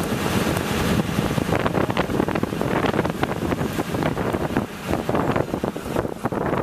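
Wind blowing across a small handheld video camera's built-in microphone, a steady rushing noise broken by many short crackles.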